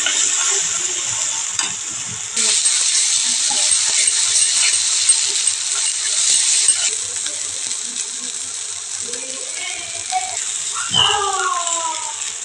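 Potatoes and masala sizzling in hot oil in a kadai, stirred with a metal ladle that scrapes and clicks against the pan. The sizzle grows louder about two seconds in and eases off after about seven seconds. A short pitched cry comes near the end.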